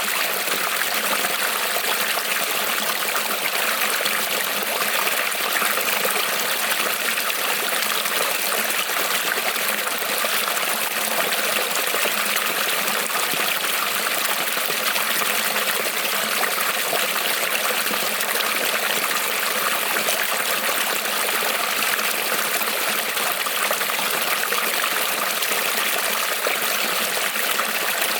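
Creek water rippling and trickling steadily over stones, an even rushing with no pauses.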